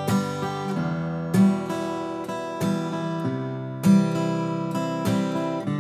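Acoustic guitar strummed in a campfire rhythm: bass notes ring under accented strums on the backbeats, with light upstrokes that catch only the top strings in between. The chord changes a few times.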